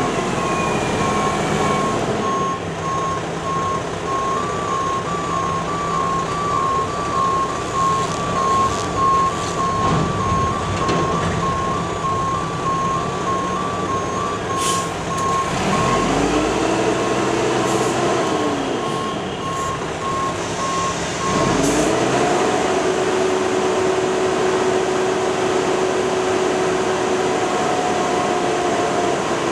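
Mack Granite roll-off truck's backup alarm beeping steadily over its diesel engine, stopping about 21 seconds in. The engine speeds up and drops back around the middle, then speeds up again as the beeping stops and holds there for several seconds.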